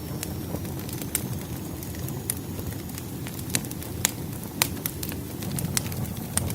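Firewood burning in a fireplace: a steady low flame rumble with sharp, irregular crackles and pops from the logs, about eight in all.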